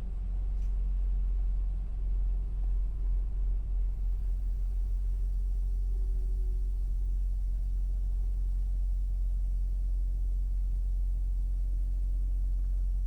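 Semi-truck's diesel engine and road noise: a steady low rumble.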